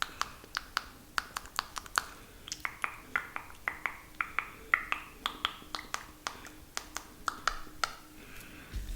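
Close-miked wet mouth sounds for ASMR spit painting: a quick, irregular run of sharp tongue and lip clicks and smacks, about three or four a second.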